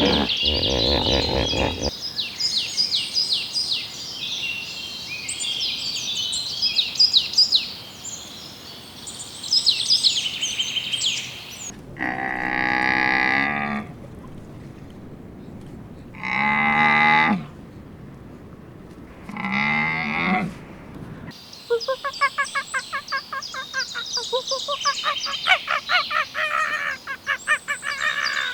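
Birds chirping rapidly, then three long, drawn-out calls from a large farm animal, each about a second and a half, then fast bird chirping again. The clips change abruptly, as in an edited sequence.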